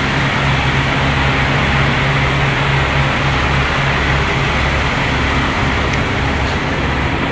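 Semi-truck on the move, heard from inside the cab: a steady engine hum under road noise.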